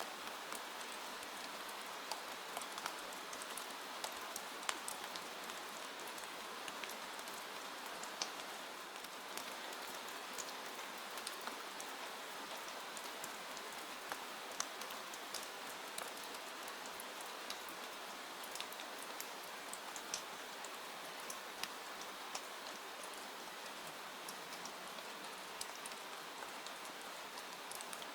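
Steady rainfall: an even hiss of rain with many separate drops ticking sharply on a surface at irregular moments.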